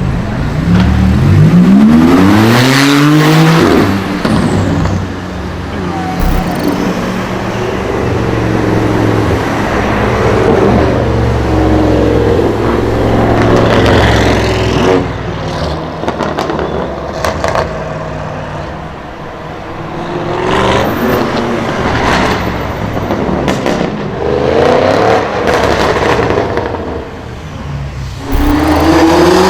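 Supercar engines revving hard, the pitch climbing steeply in the first few seconds and again near the end, with a steady engine drone between. Several sharp exhaust pops and bangs cut through the second half.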